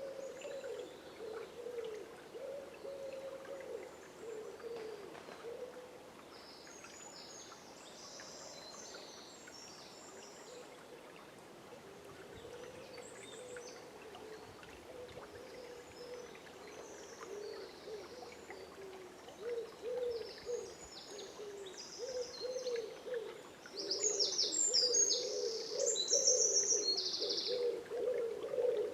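Dawn chorus in woodland: a bird giving low, repeated hooting calls throughout, getting louder toward the end, with bursts of high songbird song about a quarter of the way in and, loudest, near the end.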